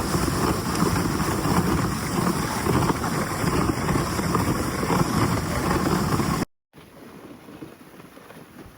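Rushing noise of a dog sled on the move, with wind buffeting the phone's microphone. It cuts off abruptly after about six and a half seconds, and a much quieter steady hiss follows.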